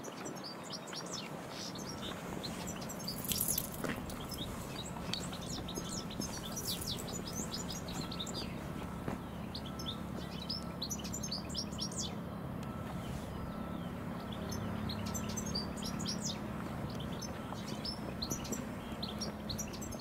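Small birds chirping, many quick high calls in no regular pattern, over a steady low hum. There is a brief louder noise about three and a half seconds in.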